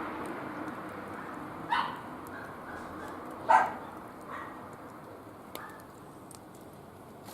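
A dog barking in short yips: one about two seconds in, a louder one at about three and a half seconds, then fainter ones. A wood fire crackles with small scattered pops underneath.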